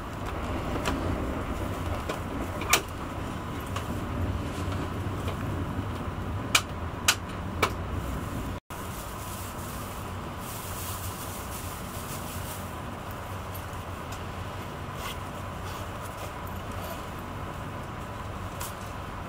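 Interior running noise of a Renfe AVE S-102 (Talgo 350) high-speed train: a steady low rumble with a few sharp clicks in the first half. The sound cuts out for an instant just under halfway, then carries on as a slightly quieter, even rumble.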